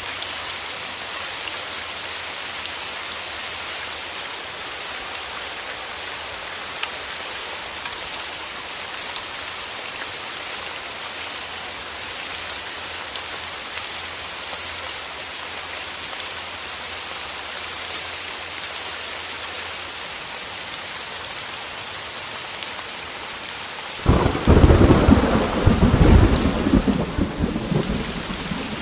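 Heavy rain falling steadily, with single drops ticking through the hiss. About four-fifths of the way in, a thunder rumble breaks in suddenly and loudly, lasts a few seconds, then fades back under the rain.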